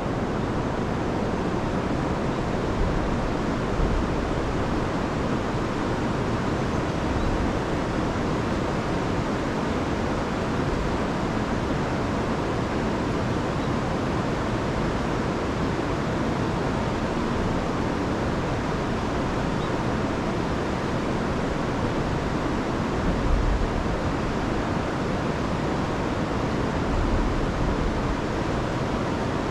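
River running high after heavy rain, pouring over waterfalls in a steady rushing noise. A few brief low rumbles swell up over it, around four seconds in and again near the end.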